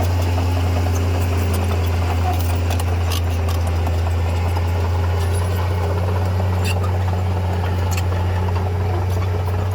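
Heavy earthmoving machine's diesel engine running with a steady low drone, and a few sharp clicks over it.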